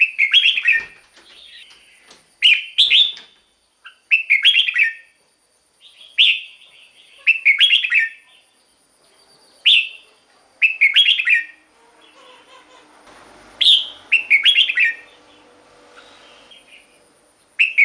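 Red-whiskered bulbul singing: short, bright warbled phrases of a few quick notes each, repeated about every second or so, around a dozen in all.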